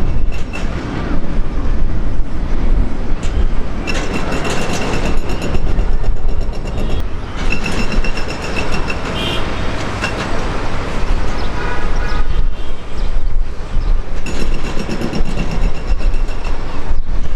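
Ilyushin Il-76's four turbofan engines running loud, a heavy jet roar with a high whine that comes in twice.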